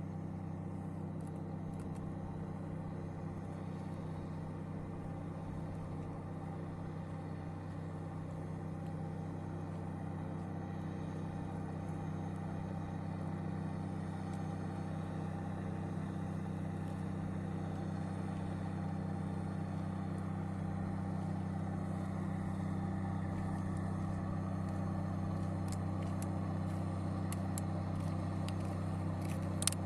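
A boat's engine running at a steady drone, growing slightly louder over the stretch, with a few faint clicks near the end.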